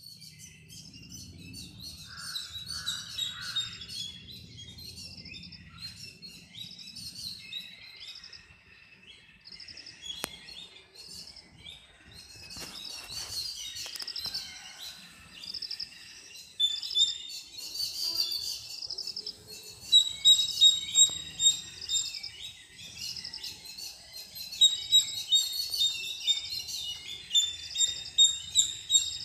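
Small birds chirping in many quick, overlapping calls, busier and louder in the second half. A faint low rumble sits underneath for the first several seconds.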